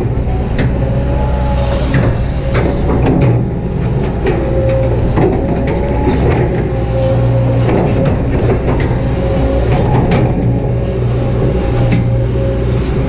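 Kobelco SK200-8 excavator's diesel engine running steadily under load, with a steady whine above the engine note. Short clanks and scrapes come at irregular moments throughout.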